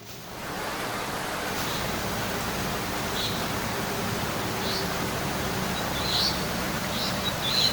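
Nature ambience: a steady rushing noise that fades in at the start, with about six short, high bird chirps at irregular intervals of a second or so.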